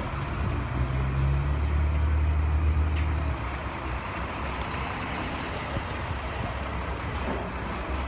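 Heavy vehicle engine rumbling, louder for the first few seconds, then easing to a steady background of traffic.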